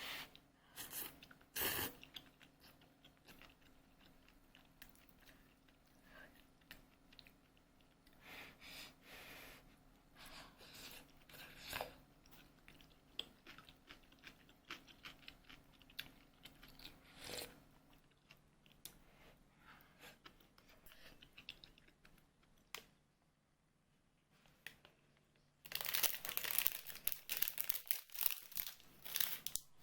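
A person eating: chewing and crunching on food in small bursts, with a louder, dense stretch of crunching near the end.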